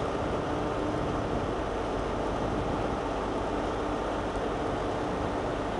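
Steady train running noise: an even rumble with a faint steady hum under it, unchanging in level.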